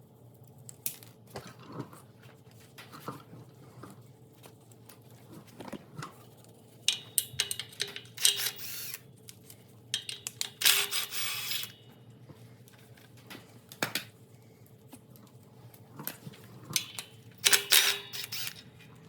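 Metal hand tools and engine parts clinking and clattering in intermittent bursts while an engine is being dismantled, over a faint steady hum.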